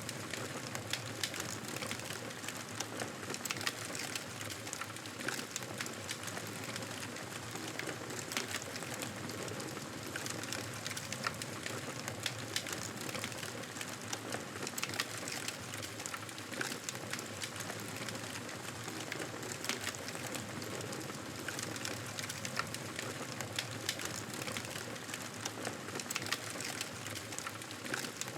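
Wood fire crackling: many small irregular pops and snaps over a steady hiss.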